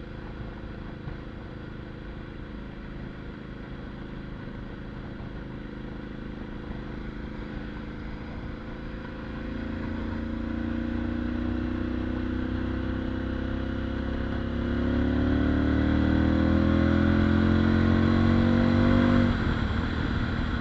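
Motorcycle with a Mivv titanium exhaust running steadily. About halfway through it gets louder and its note climbs slowly for several seconds as it accelerates. The note breaks off and drops near the end.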